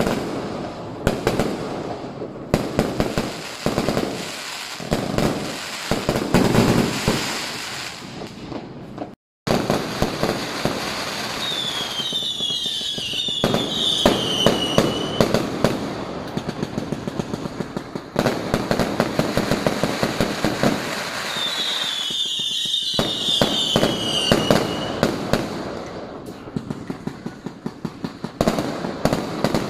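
Fireworks and firecrackers going off in dense, rapid strings of bangs and crackles. Twice, a high whistle falls in pitch over a few seconds. The sound drops out briefly about nine seconds in.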